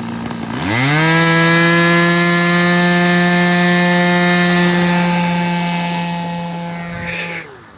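RC model plane's motor and propeller spinning up: the pitch rises quickly just under a second in, holds at full throttle as a steady whine that slowly grows fainter, then winds down near the end as the throttle is cut.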